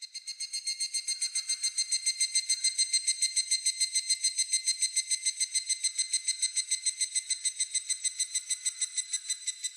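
Higurashi cicada (Tanna japonensis) calling: a rapid, even train of high, ringing pulses, about eight a second. It swells in over the first second and cuts off abruptly near the end.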